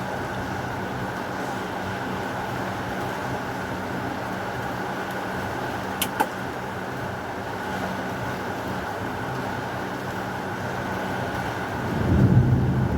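Steady hiss of heavy rain, with two sharp clicks about six seconds in and a short low thunder rumble near the end.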